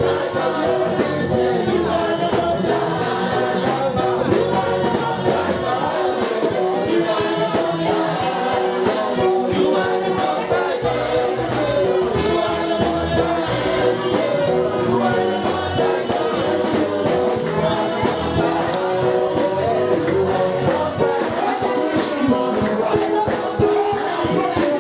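Group of voices singing a gospel worship song over instrumental accompaniment with a steady beat.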